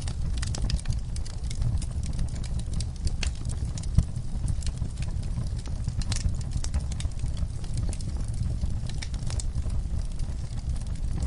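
Wood fire in an outdoor fireplace crackling: scattered sharp snaps and pops from the burning logs over a steady low rumble, with one louder pop about four seconds in.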